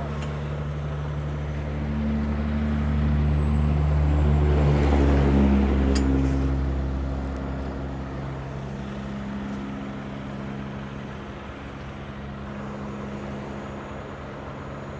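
Heavy rotator tow truck's diesel engine running steadily, speeding up under load for a few seconds about two seconds in, then settling back to a steady run.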